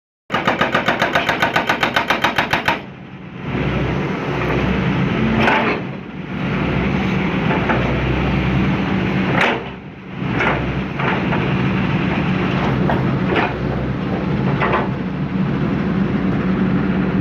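A hydraulic breaker on a John Deere 160C LC excavator hammers rapidly and evenly, about seven blows a second, then stops after about two and a half seconds. The excavator's diesel engine keeps running steadily after that, with a few sharp knocks and cracks scattered through.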